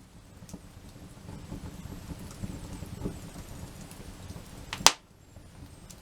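Small wood fire crackling, with a low rustling hiss and scattered little ticks, and one sharp, loud snap just before the end.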